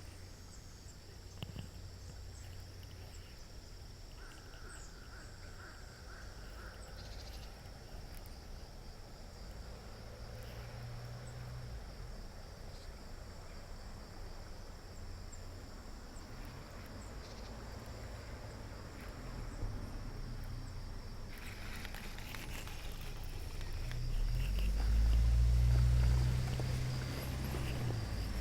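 Insects, crickets by the sound, keep up a steady high-pitched trill throughout. A low rumble underneath swells loud near the end, then eases off.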